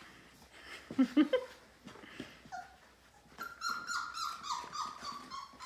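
Labrador puppies, nearly five weeks old, making a couple of short low growling sounds about a second in, then a run of high whining cries over the second half, about four a second, each dropping slightly in pitch.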